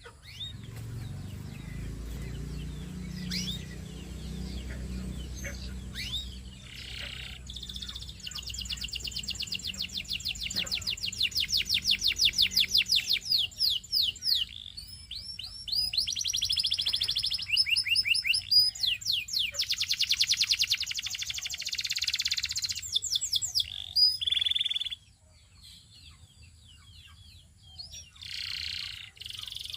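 Domestic canary singing: fast trills of rapidly repeated high notes, one run after another with short breaks, starting a few seconds in and dropping away to a quieter stretch near the end before resuming.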